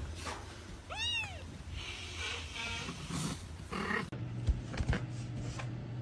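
A cat meows once about a second in: a single call that rises and then falls in pitch. A few short knocks follow later.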